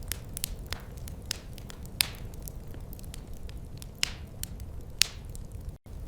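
Wood fire crackling, with irregular sharp pops over a steady low rumble; the two loudest pops come about two and five seconds in. The sound cuts out for an instant near the end.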